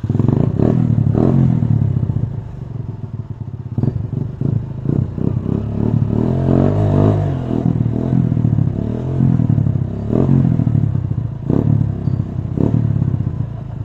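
Off-road trail motorcycle engine revving hard, the pitch rising and falling again and again, with a few short clattering knocks.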